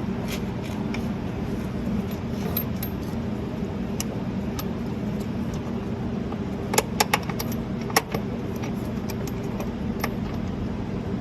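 Metal clinks and taps from bolts and hand tools being worked into a new front upper control arm, with a quick cluster of sharp clinks about seven seconds in and one more a second later, over a steady low hum.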